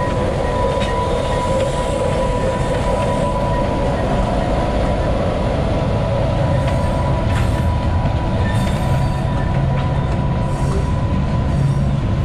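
A slow freight train, a small diesel switcher locomotive hauling covered hopper cars, passing close by. A steady high wheel squeal runs under the rumble of the cars. From about halfway through, wheels click sharply over rail joints.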